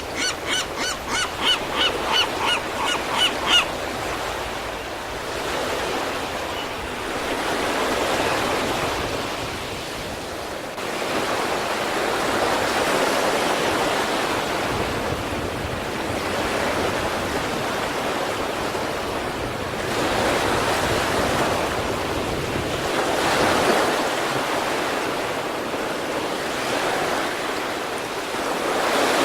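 Sea waves breaking on the East Sea shore: a continuous surf wash that swells and ebbs every few seconds. During the first few seconds a bird calls in a quick run of short notes over the surf.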